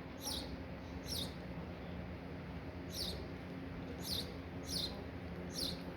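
A small bird chirping: short, high chirps, each sliding down in pitch, repeated roughly once a second.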